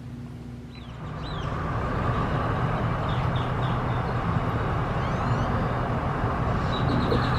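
Steady low hum of a car engine idling, with a rushing noise that builds in after about a second. Small birds chirp briefly several times over it.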